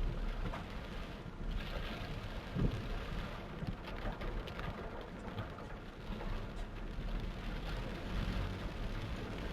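Torrential rain pouring down as a steady hiss, with a deep low rumble beneath it and a single thump about two and a half seconds in.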